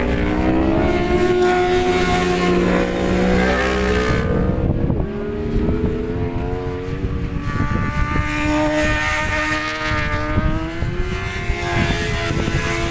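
Racing motorcycle engines on track. One rises in pitch for about four seconds and fades. Another climbs from about seven seconds in and then holds its revs. Gusty wind buffets the microphone underneath.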